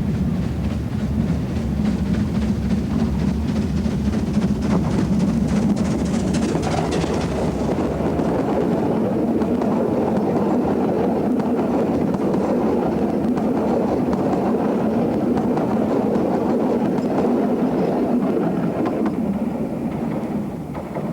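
Narrow-gauge steam train running, loud and steady. A sharp, rapid clatter in the first eight seconds or so gives way to a smoother, lower running sound, which drops away at the very end.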